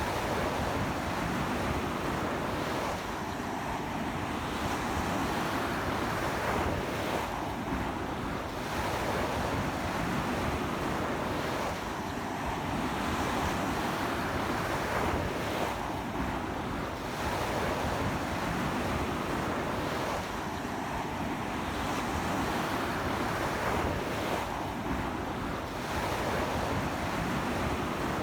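Surf breaking and washing up a beach in strong sea wind, swelling and easing every four seconds or so, with wind rumbling on the microphone.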